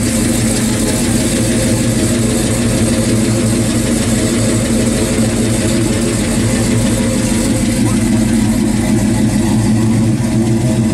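Chevrolet Chevelle SS V8 idling steadily through its dual exhaust.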